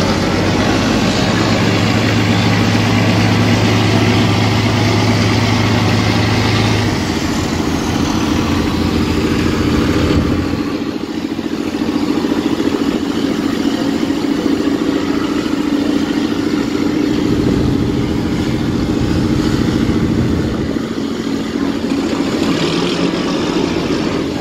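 Marine diesel engine running steadily with a loud, deep hum. Part of the low hum drops away about seven seconds in, and the bass thins again about ten seconds in, as the engine note changes.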